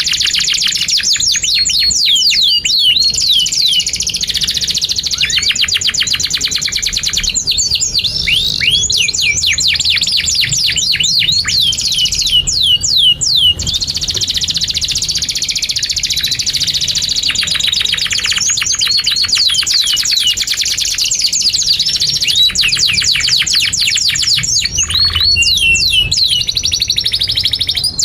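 Domestic canary singing a long, continuous song of rapid trills of repeated notes broken by strings of downward-sweeping whistles.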